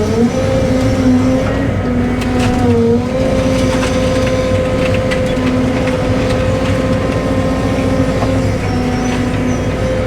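Cat 313 excavator's diesel engine and hydraulics working, a steady hum whose pitch sags briefly under load right at the start and again about three seconds in, with a few knocks in between.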